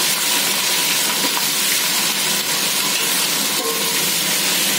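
Onions with ginger and garlic paste sizzling in hot oil as they are sautéed in a metal pot: a steady frying hiss.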